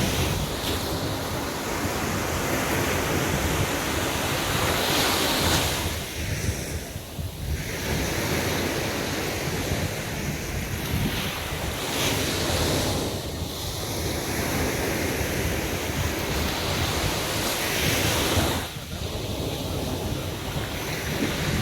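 Waves breaking and washing on a beach, a continuous surf roar that swells and ebbs every few seconds, with wind buffeting the microphone.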